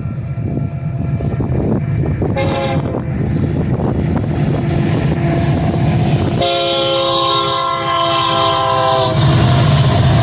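Diesel freight train running by with a steady engine rumble; its horn gives a short blast about two and a half seconds in, then a long, loud blast from about six and a half to nine seconds, as a rush of wheel and rail noise comes in and stays.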